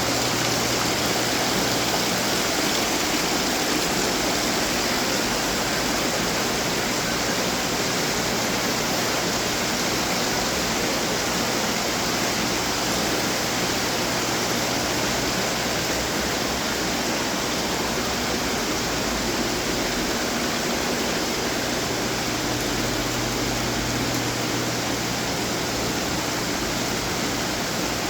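Running decorative water fountains: a steady rush of falling and splashing water.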